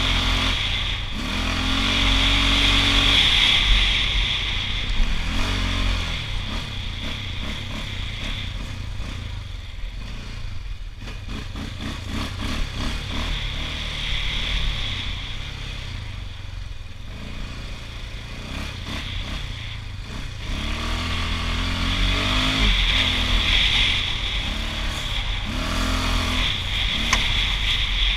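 Honda TRX680 ATV's single-cylinder engine running under way, revving up and easing off as it rides. It is loudest in the first several seconds and again over the last eight, and runs lower and quieter in between.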